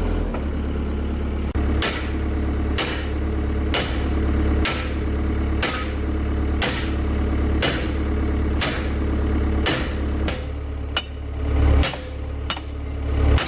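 Hammer blows on steel, each with a short metallic ring, about one a second and then quicker in the last few seconds: typical of driving a pin out of a bulldozer track chain. An engine idles steadily underneath.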